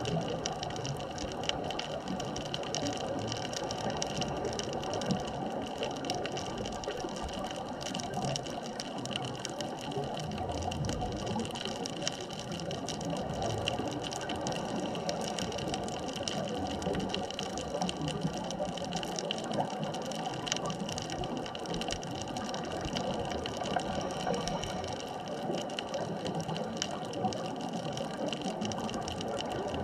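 Steady underwater ambient noise: a dense, even hiss with several unchanging hums and tones running through it.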